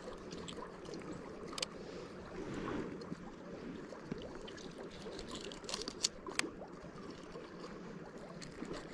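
Steady rush of flowing river water, with a few sharp clicks scattered through it.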